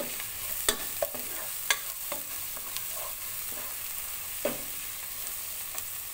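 Chopped red onion and minced garlic sizzling in oil and margarine in a nonstick pot while a spoon stirs them, with a steady hiss and a few sharp scrapes and knocks of the spoon against the pan, the loudest about a second and a half in.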